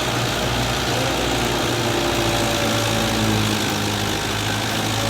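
Belarus tractor's diesel engine running steadily while driving a thresher, with an even low drone that holds the same level throughout.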